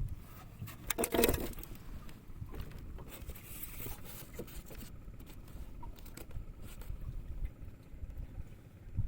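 Low, gusty rumble of wind on the microphone out on a small boat, with a short burst of clatter and knocks about a second in and a few light taps after.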